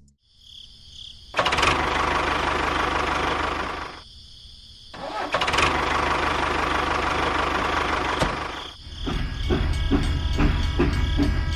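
A small engine or motor starting and running in two spells of about three seconds, with a short pause between them, then settling into a steady run with a regular beat, typical of the mini tractor being powered up.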